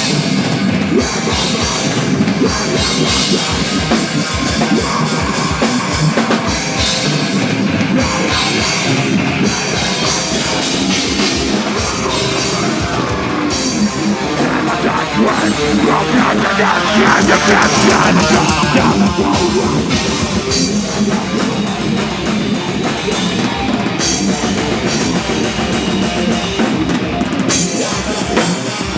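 Rock band playing a heavy rock song: drum kit with steady beats under electric guitar, loud and dense throughout.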